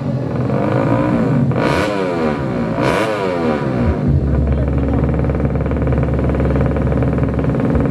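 Fuel-injected 200cc underbone drag-bike engines revving at the start line: two quick throttle blips about two and three seconds in, the pitch rising and falling, then a steady low drone from about four seconds.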